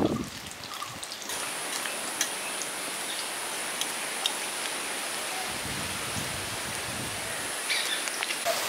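Batter-coated egg chops deep-frying in hot oil: a steady sizzle with scattered small pops and crackles, growing a little louder about a second in.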